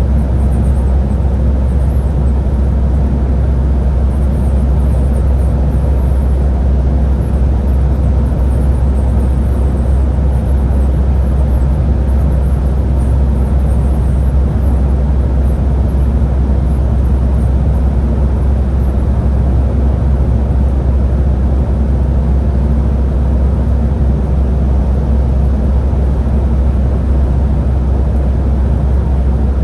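Scania Higer A30 13-metre bus running at a steady pace: an even, unbroken low rumble with a faint steady tone above it.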